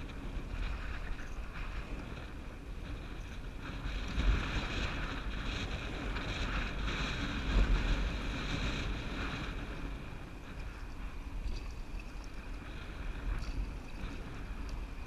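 Wind buffeting the microphone over water sounds from a canoe on the river. A louder rush of hiss swells from about four to nine seconds in.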